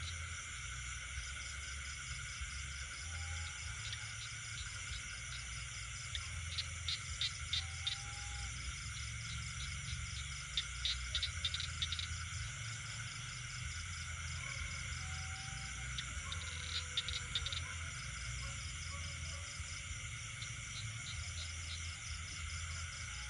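Night chorus of frogs and insects: a steady, layered high-pitched trilling, with bursts of rapid clicking calls a few times and short, faint whistle-like notes now and then, over a low rumble.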